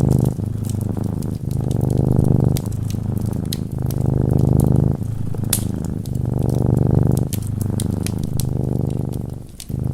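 Domestic cat purring close up, a steady low rumble that swells and eases with each breath, about a second per breath, with a brief dip near the end. Sharp crackles and pops from a fireplace sound over it.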